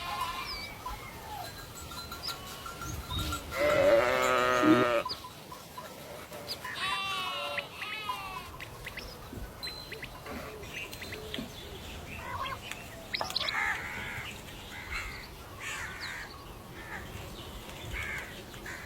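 Farm livestock bleating: one loud, wavering bleat about four seconds in and a shorter one a couple of seconds later, with small bird chirps through the latter half.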